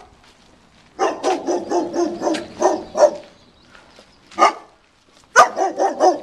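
Large German Shepherd barking in quick runs: a string of barks starting about a second in, a single bark, then another fast string near the end.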